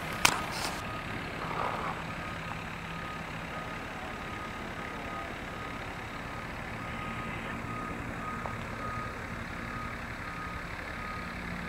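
A vehicle's reversing beeper beeping faintly and evenly, over the steady low hum of an engine running and a constant hiss.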